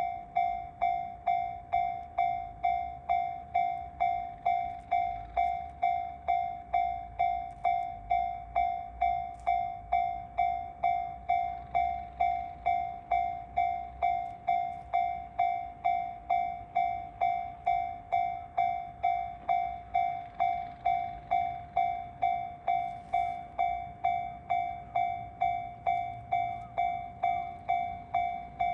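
Railway level crossing alarm ringing, one electronic ding repeating evenly about twice a second, over a faint low rumble.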